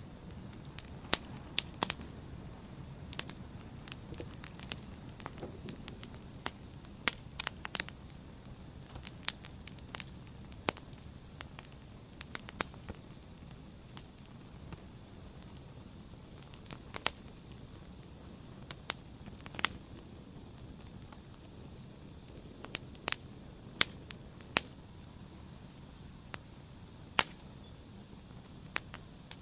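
Wood fire burning in a fireplace: a steady low rush of flame with irregular sharp crackles and pops from the logs, sometimes in quick clusters.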